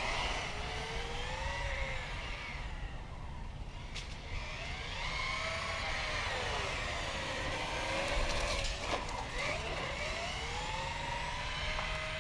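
Axial Yeti Score radio-controlled trophy truck running: its electric motor and drivetrain whine rises and falls in pitch with the throttle, several times over, over a low rumble, with a couple of sharp knocks.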